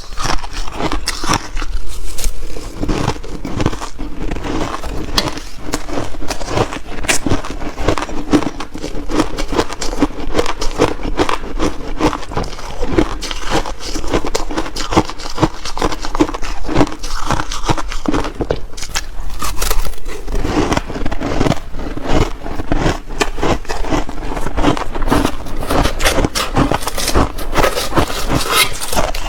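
Shaved ice being chewed in big bites close to the microphone: dense, rapid crunching and crackling that goes on without a break.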